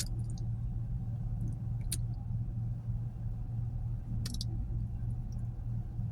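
Steady low hum inside a car, with a few faint clicks about 2 and 4 seconds in.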